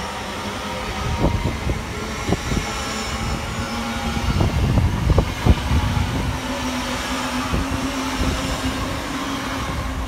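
LNER Azuma (Class 800/801) high-speed train passing at speed: a steady rush of wheel and rail noise, broken by a few sharp knocks from the wheels in the first half. A steady hum comes in about halfway through as the last coaches and the cab end go by.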